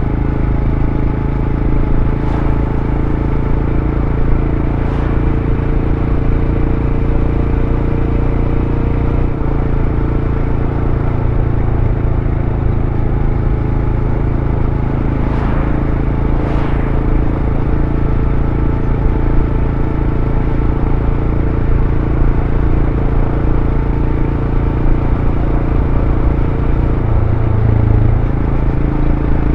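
Royal Enfield Scram 411's air-cooled single-cylinder engine running under way through its stock exhaust. The note drops a little about nine seconds in and breaks briefly before settling again near the end.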